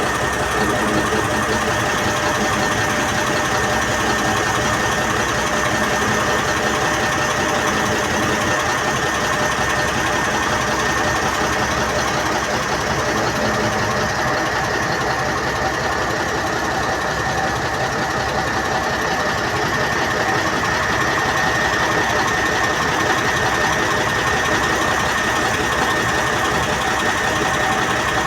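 Passenger train running: a steady mechanical rattle and hum with a high steady whine over it.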